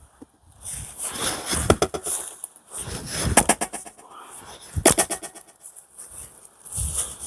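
Fiskars XXL splitting axe striking pine firewood three times, about a second and a half apart, each blow echoing strongly. Heavy huffing breaths from the chopper between the strikes.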